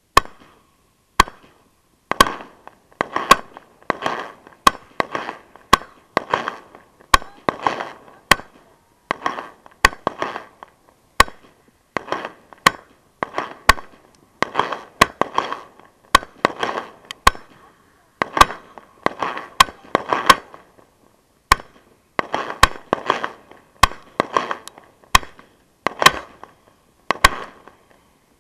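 Fireworks mortar batteries firing at close range: sharp launch bangs about one a second, with a few short pauses, each followed by a brief rattling tail.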